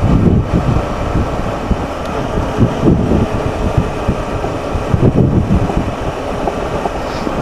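Wind buffeting the microphone on a moving motorcycle, heard as a steady rush with irregular low thumps, over the bike's running engine and road noise.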